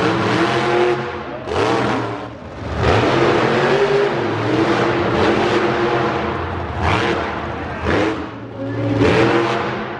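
Monster truck engine running hard and revving, its pitch rising and falling, with sharp bursts of throttle about 1.5, 3, 7 and 9 seconds in.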